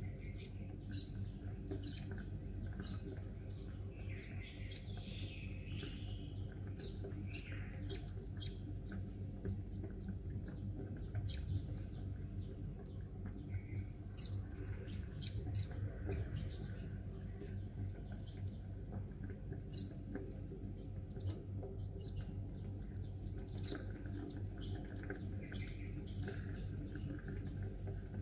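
Sparrows chirping, many short high chirps in quick clusters, over a steady low hum.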